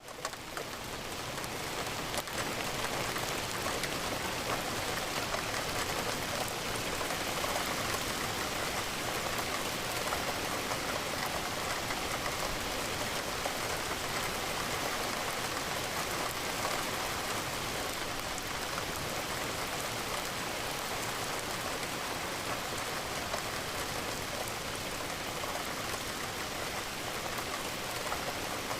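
Steady rain pattering against a window, an even hiss of many drops. The level dips briefly at the very start and swells back up over the first two seconds.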